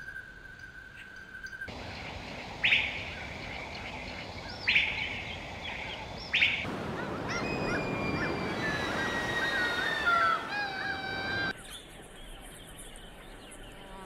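Birds calling: three short, loud, sharp calls about two seconds apart, then many overlapping thin, gliding calls over the rush of surf, which cut off suddenly near the end.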